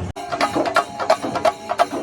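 Kerala temple-festival percussion ensemble playing: rapid, sharp drum strokes with a held piping wind note over them. It cuts in abruptly just after a brief break at the start.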